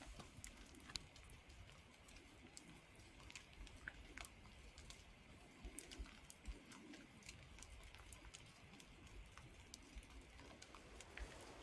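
Near silence in a wet forest, broken by faint, irregular ticks and taps of rain dripping.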